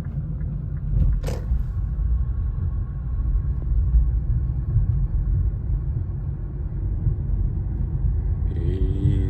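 Steady low rumble of engine and road noise inside the cabin of an Infiniti Q50 with its 3.0-litre twin-turbo V6, under way. A single sharp click comes about a second in, and a short pitched sound near the end.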